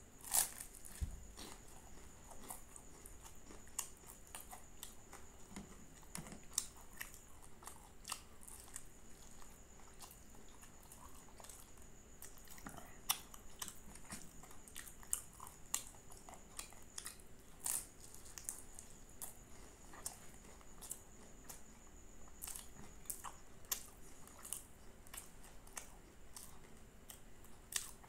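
Close-miked chewing and biting of flaky puff-pastry aloo patties, with irregular crisp crunches and wet mouth sounds. A loud bite comes just after the start. A faint steady high-pitched whine sits underneath.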